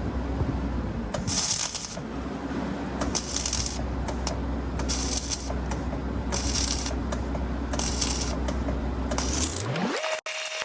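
Grinding on the steel of a scraper apron: short scraping passes about every second and a half over a steady engine drone, then near the end a rising whine that settles into a steady tone.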